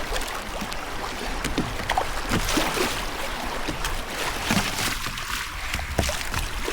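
River water trickling and lapping around a kayak, with scattered small splashes and knocks from paddling.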